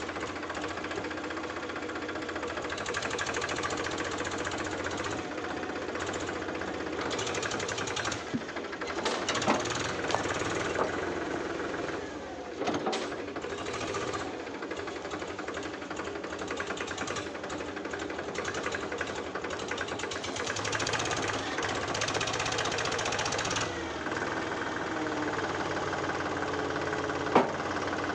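Powertrac Euro 50 tractor's diesel engine running steadily while pulling a fully loaded trolley, its level swelling and easing a little a few times.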